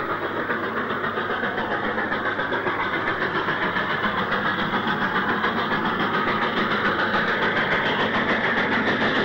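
Stanier 8F 2-8-0 steam locomotive working hard under almost full regulator with a heavy iron ore train: rapid, even exhaust beats that grow slightly louder toward the end.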